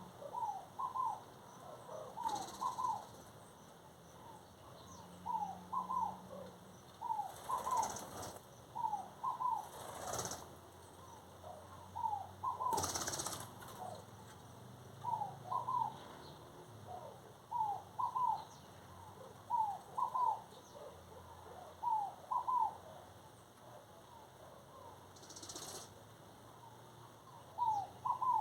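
Birds calling in short paired notes that repeat every second or two, with a few brief rushing sounds in between.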